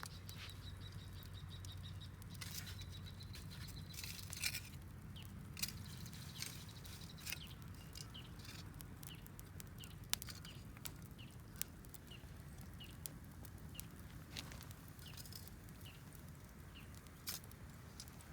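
Campfire crackling, with irregular sharp pops and snaps of burning wood, a few of them louder.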